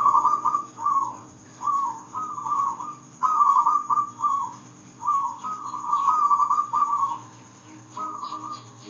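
Zebra dove (perkutut) cooing: a run of phrases made of quick, rolling, whistle-like notes, with short pauses between phrases and one longer phrase about two-thirds of the way through.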